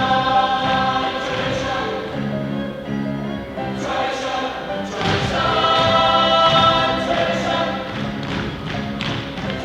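A stage chorus sings together in sustained notes over instrumental accompaniment with a steady bass line, with a few thumps among the singing.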